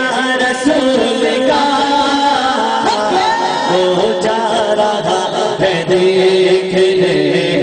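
Male voices chanting a melodic devotional refrain, in held, wavering lines.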